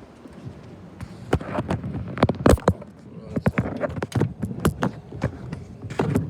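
A quick, irregular run of sharp knocks and clacks, starting about a second in, from something being handled close to the microphone.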